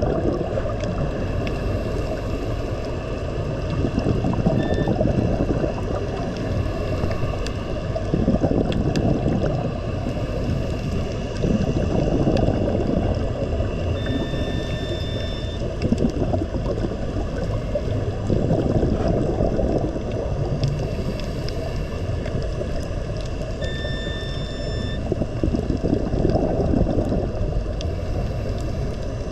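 Low rumbling sea-water noise that swells and eases every few seconds, with a few faint short high tones.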